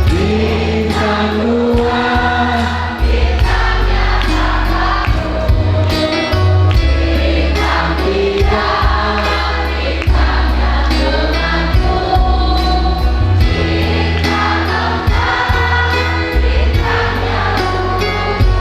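High school choir singing in parts over instrumental accompaniment with a steady beat.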